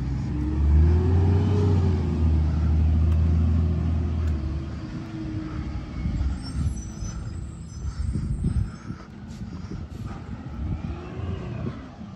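Garbage truck's diesel engine running loud for the first few seconds, its pitch rising and then easing back down. After that it quiets, with scattered knocks and a high-pitched squeal, then another short rev near the end.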